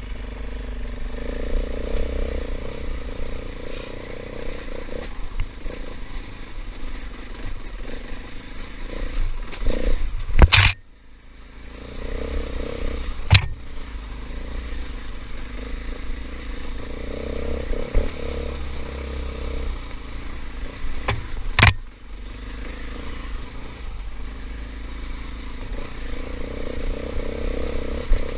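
KTM 500 EXC single-cylinder four-stroke dirt bike engine running under changing throttle while riding a trail, with three sharp knocks, about ten, thirteen and twenty-two seconds in.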